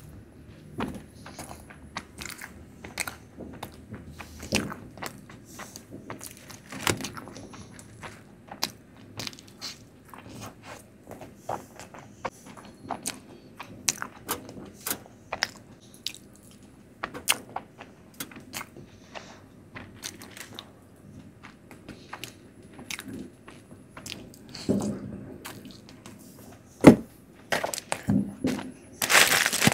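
Close-miked chewing and wet mouth clicks of a person eating Indian sweets, with many small smacks scattered throughout. A sharp, louder click about 27 seconds in is the loudest sound.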